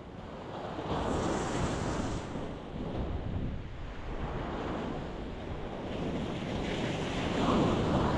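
Ocean waves breaking and washing against a rocky shore in a steady rush. Two surges stand out, one about a second in and a louder one near the end.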